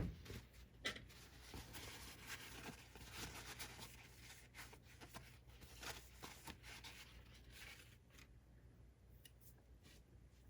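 Faint rubbing and wiping by hand, with many small clicks, as grease and dirt are cleaned off the player's mechanism parts; a single knock at the very start, the rubbing fading out about two seconds before the end.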